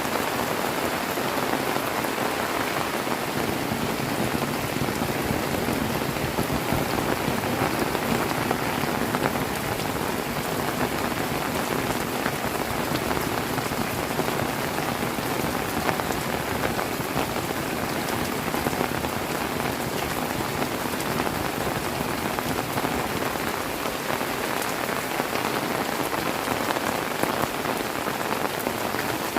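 Heavy rain falling steadily, a dense even hiss dotted with countless individual drop hits.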